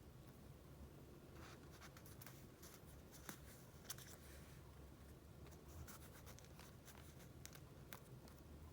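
Faint rustling and light ticks of paper and plastic sleeves being handled and flipped, a few soft strokes scattered through, over a low steady hum.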